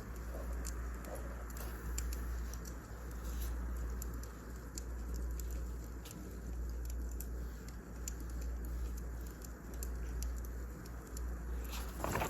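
Wood fire crackling: irregular small pops and snaps over a steady low rumble, with a slightly bigger crackle near the end.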